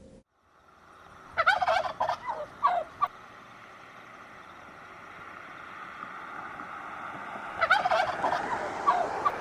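Turkey gobbling twice, each gobble a quick rattling burst of notes lasting about a second and a half, the first a little over a second in and the second near the end, over a steady outdoor background hiss.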